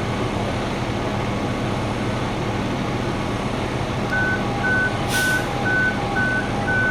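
A large truck's diesel engine running steadily, with its reversing alarm starting about four seconds in and beeping about twice a second. A short hiss of air comes about five seconds in.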